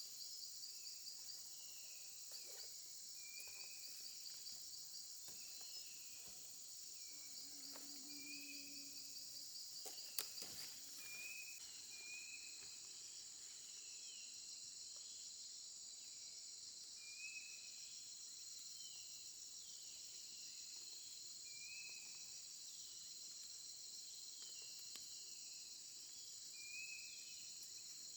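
Faint outdoor chorus of crickets and other insects, a steady high shrill, with short chirping bird calls repeating every second or two. A single sharp click about ten seconds in.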